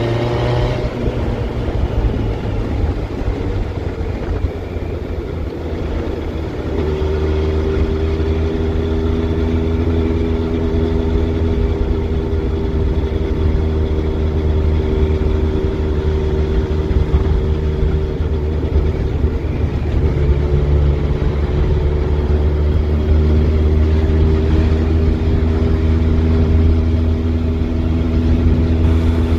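Road vehicle in motion: engine drone over heavy low rumble, settling into a steady pitch about seven seconds in and holding there.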